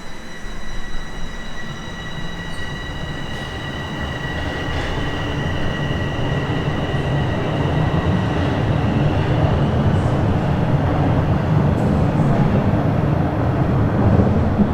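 Bombardier Toronto Rocket subway train pulling away and gathering speed. Its running rumble builds steadily over the first several seconds and then holds, with a faint high steady whine that fades out about halfway through.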